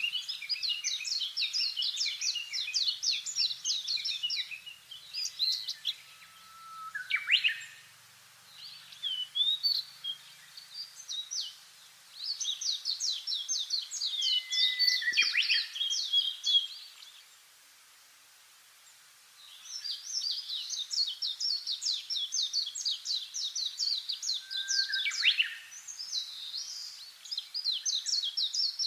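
Small songbirds singing in fast chirping trills, phrases following one another closely, with a few short upward-sweeping notes and two brief pauses, about a quarter of the way in and again a little past halfway.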